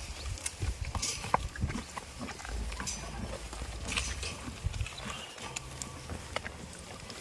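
Goats moving about: scattered short clicks and knocks over a low rumble.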